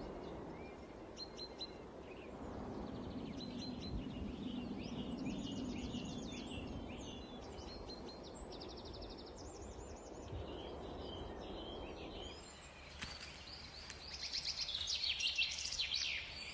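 Forest ambience: several small songbirds chirping and trilling, over a soft low rushing noise that fades out about twelve seconds in. Near the end one bird sings a louder, busier phrase.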